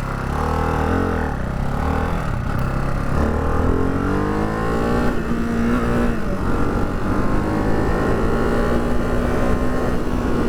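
Ducati Hypermotard 698 Mono's single-cylinder engine pulling away, its pitch climbing as the revs rise, then holding steady from about halfway through as the bike cruises.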